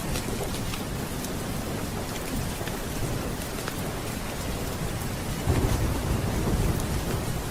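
Thunderstorm ambience: steady rain with scattered drop ticks and a low rumble of thunder that swells about five and a half seconds in.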